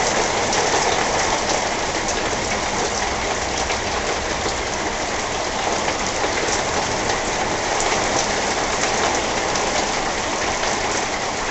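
Heavy thunderstorm rain pouring down steadily, with individual drops striking close by.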